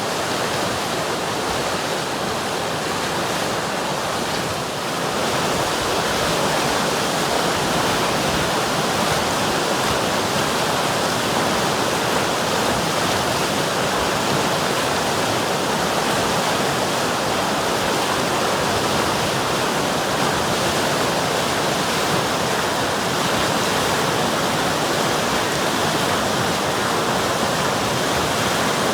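River water rushing steadily, a dense, even noise with no breaks. It grows slightly louder about five seconds in.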